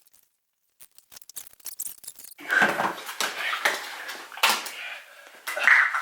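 Handling noise: a few light clicks, then from about two seconds in a denser run of clattering and knocking of hard objects being moved about.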